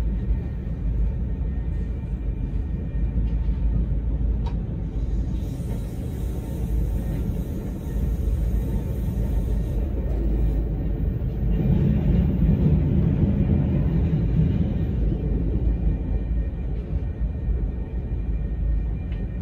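Steady low rumble of a VIA Rail passenger train running along the track, heard from aboard. It swells louder for a few seconds past the middle.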